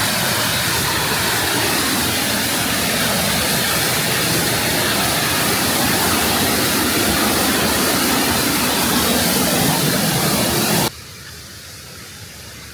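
Waterfall pouring close by: a loud, steady rush of falling water. About 11 s in, it drops suddenly to a much fainter rush.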